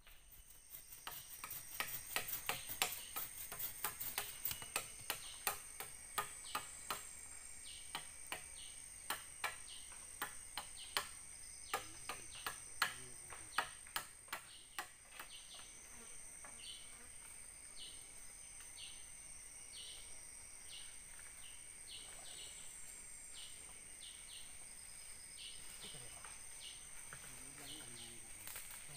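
Tropical forest insects: a steady high-pitched buzzing drone with a lower trill beneath it, and a short pulsed call repeating about once a second that stands out in the second half. Through the first half there is a run of sharp, irregular clicks or knocks, the loudest sounds here, which die away about fifteen seconds in.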